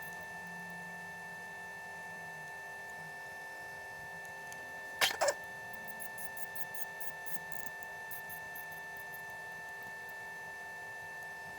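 A steady hum made of several even tones, with a sharp double click about five seconds in and faint light ticks after it.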